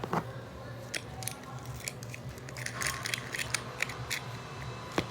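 Light, scattered metallic clicks and taps of a small 7/16 nut and the tool's metal parts being handled as the nut is threaded by hand onto an air die grinder's spindle over a new cutting wheel.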